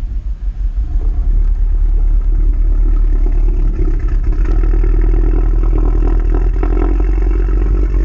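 Subaru engine running on E85 shortly after a cold start, a steady low rumble, a little uneven in the first second.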